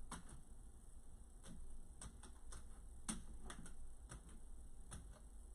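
Light, sharp clicks at uneven intervals, about a dozen in all, over a low steady hum.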